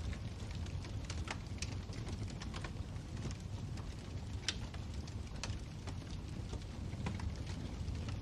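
Wood fire burning in a fireplace: a steady low rumble with irregular crackles and pops, a few a second. One pop stands out about four and a half seconds in.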